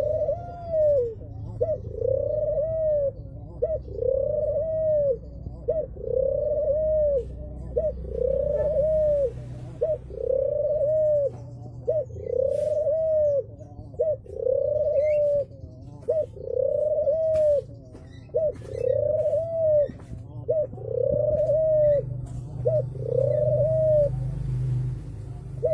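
A pied puter dove, a domestic Barbary (ringneck) dove, cooing over and over: each call is a short note followed by a longer rising-then-falling coo, repeated about every two seconds, a dozen times. A steady low hum runs underneath.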